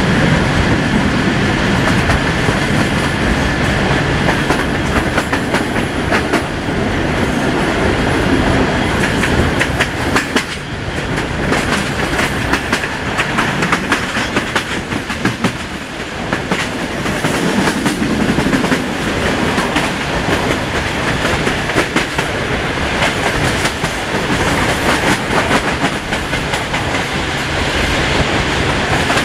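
Passenger train coaches running at speed, their wheels clattering in an irregular clickety-clack over the rail joints with a steady rumble, heard from an open carriage window.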